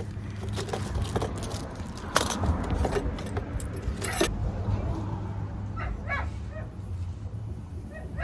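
A pet animal makes several short, high-pitched calls in the second half, after a couple of sharp knocks about two and four seconds in, over a steady low hum.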